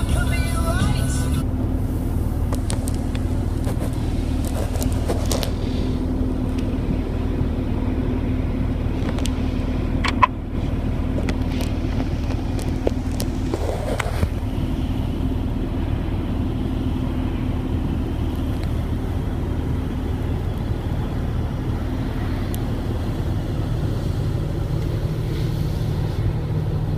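Land Rover Discovery 3's 2.7-litre TDV6 diesel engine idling steadily, heard from inside the cabin, with a single sharp click about ten seconds in.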